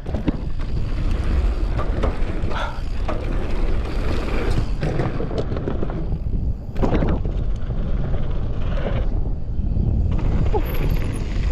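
Mountain bike riding down a dirt jump trail: steady rumble of tyres on dirt and wind on the helmet-camera microphone, broken by sharp clacks and knocks from the bike. There is a hard thud about seven seconds in, where the bike lands short and cases a jump.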